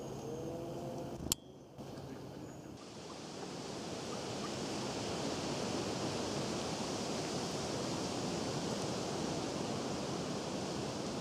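Birds calling briefly, cut off by a sharp click about a second in. Then a steady, even rushing outdoor ambience fades in over the next few seconds and holds.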